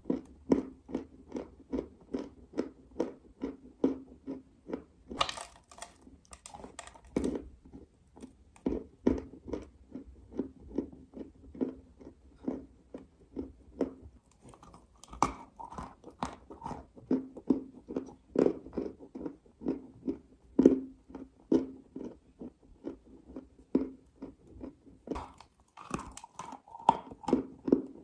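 Dry clay being chewed, crunching steadily at about two to three chews a second, with a few louder, crisper crunches about a fifth of the way in, midway, and near the end.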